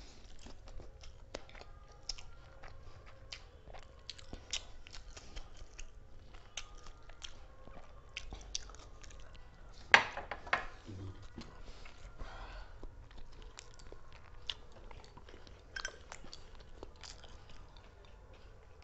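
People eating quickly at close range: chewing and crunching food, with many small scattered clicks and one sharp knock about ten seconds in.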